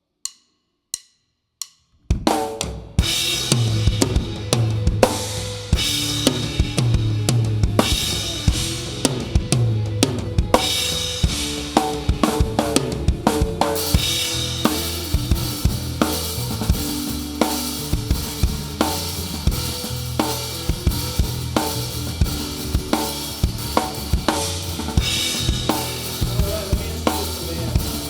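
Three sharp drumstick clicks counting in, then a live rock band comes in at full volume, the drum kit loudest: bass drum, snare and cymbals driving a steady beat under sustained bass notes.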